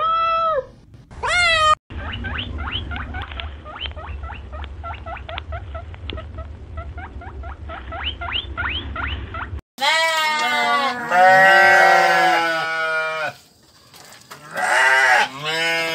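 Sheep bleating, several overlapping calls, from about ten seconds in and again near the end. Before that come two short high calls, then a long run of rapid, quick rising chirps over a low rumble.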